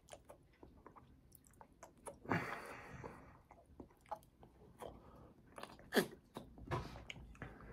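Close-up chewing of fast food, with wet mouth clicks and smacks throughout. A louder, longer noise comes about two seconds in, and louder smacks come near six and seven seconds.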